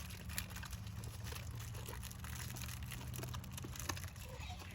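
A donkey chewing blueberries: faint, irregular small crunching and smacking sounds over a low steady hum.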